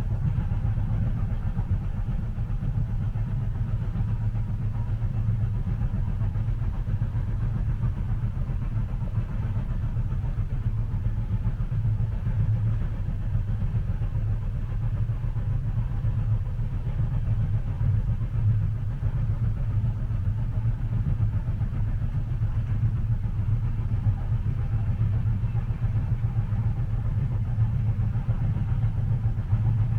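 Steady low rumble of a train running, as heard from inside the passenger cabin.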